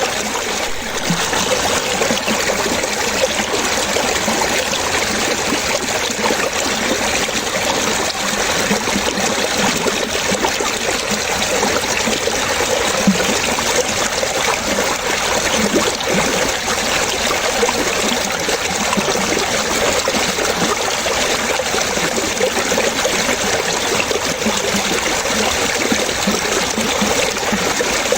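Running water trickling and splashing, steady and unbroken.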